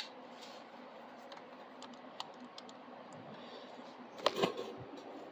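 Scattered small plastic clicks and taps as 3D printer parts and feed tubes are handled, with a louder cluster of knocks about four seconds in.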